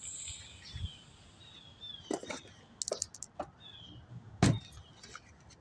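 Small birds chirping, short falling notes repeated every second or so, with scattered clicks and knocks of handling; the loudest knock comes about four and a half seconds in.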